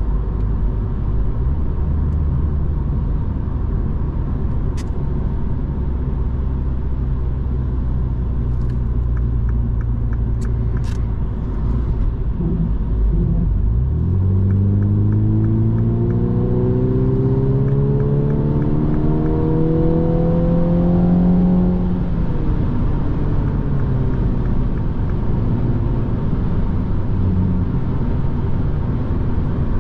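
Mini Cooper S 2.0-litre turbocharged four-cylinder engine heard from inside the cabin over road and tyre noise. It cruises at first, then about halfway in revs up in one long, rising pull under hard acceleration, and the revs fall back a little after two-thirds of the way in.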